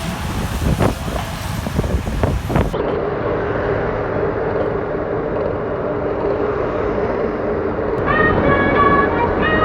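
Steady vehicle engine rumble, cutting to a different steady hum about three seconds in. Light background music with clear pitched notes comes in near the end.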